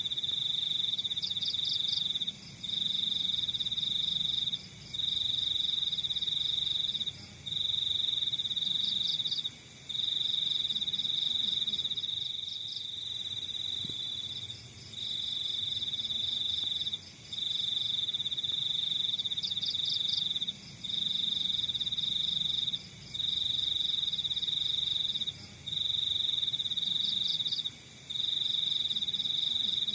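Crickets trilling: one loud, high-pitched trill repeated in bursts of about two seconds with brief breaks between them, about a dozen in all, over fainter, quicker chirping from other insects.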